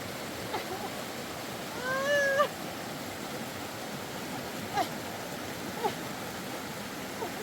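A river running steadily. About two seconds in there is a short, high, wavering cry lasting about half a second, and a few brief falling chirps are scattered through the rest.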